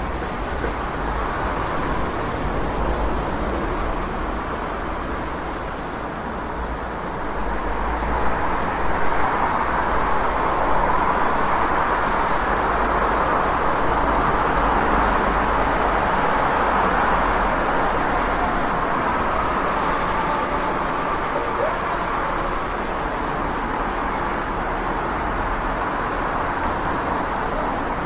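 City street traffic: a steady wash of passing vehicles with a low rumble beneath, swelling louder from about eight seconds in as traffic passes, then easing off.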